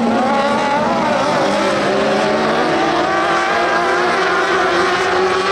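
A pack of dwarf race cars running at speed, their motorcycle engines overlapping in several wavering tones that rise and fall as the cars go by.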